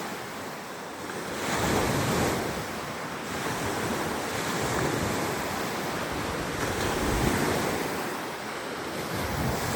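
Surf: waves washing in as a steady rush that swells twice, with some wind on the microphone.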